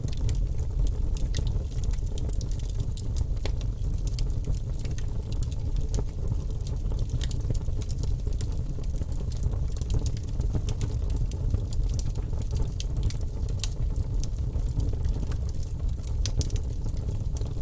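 Wood fire in a fireplace crackling steadily, with frequent sharp, irregular pops and snaps over a low rumble of the flames.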